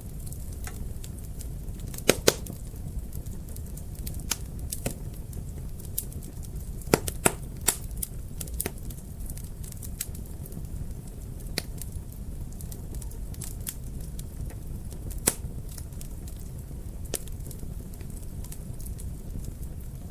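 Fire crackling in a fireplace: irregular sharp pops and snaps over a steady low rumble, with the loudest pops about two seconds in, around seven seconds in, and once near fifteen seconds.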